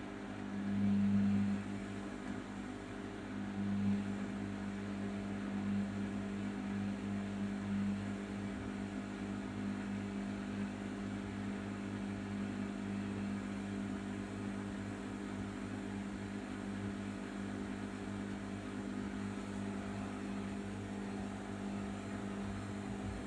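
Arçelik 5083 washing machine running with a steady, even hum, swelling briefly about a second in and again near four seconds.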